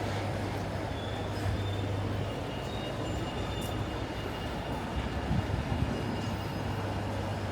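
City street traffic noise with a steady low engine hum.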